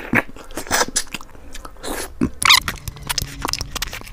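Close-miked eating: chewing and sucking on a boiled fish head, with wet smacks and crunching, a string of short clicks and a few louder noisy bursts.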